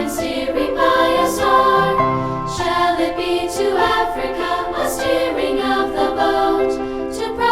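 Two-part choir singing a brisk, rhythmic folk-style song with piano accompaniment.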